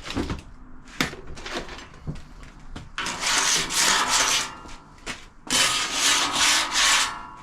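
A few light knocks, then two long rubbing strokes, each about one and a half seconds, the second starting about half a second after the first ends.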